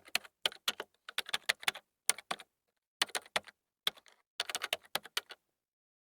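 Quick clicks like keys typed on a keyboard, coming in short irregular runs over silence, stopping near the end.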